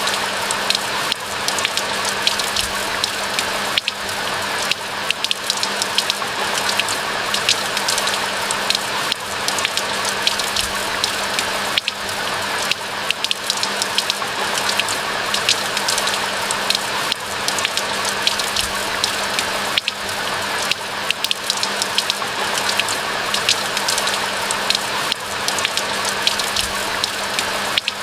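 Steady rain: an even hiss of rainfall with many sharp, close drops pattering through it.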